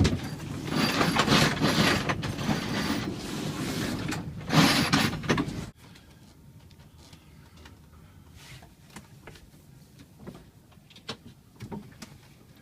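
Sail-hoisting gear on a sailboat being worked, the winch and halyard making a loud, rough grinding that cuts off sharply about six seconds in. Faint scattered clicks follow.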